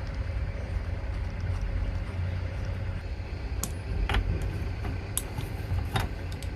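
A handful of short metallic clicks and clinks, a few of them close together in the second half, as a steering wheel and its fittings are set onto a semi truck's steering column. Under them runs a steady low rumble.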